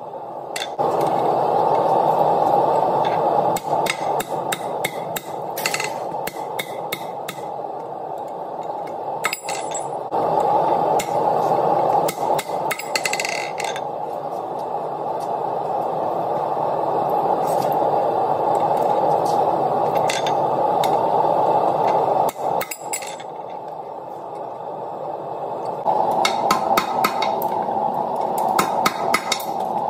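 Hammer blows on steel at the anvil, struck in irregular runs with pauses between them, over a steady rushing noise.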